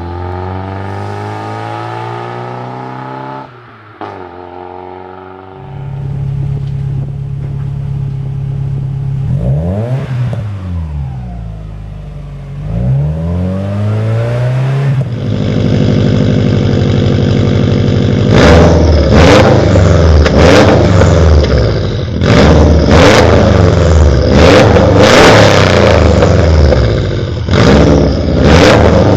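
Car engine revving through a loud aftermarket exhaust: it idles, then revs rise and fall, and in the last third it is blipped hard and repeatedly, louder.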